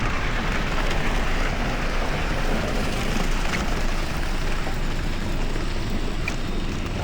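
Steady rushing noise of riding a bicycle through wet, slushy city streets: wind buffeting the camera microphone with a heavy low rumble, mixed with tyre and traffic hiss on the wet road.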